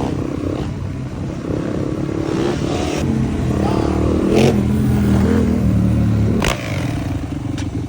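Dirt bike engines running and revving, the pitch shifting up and down as the throttle opens and closes. They get louder through the middle, then drop to a lower steady drone about six and a half seconds in.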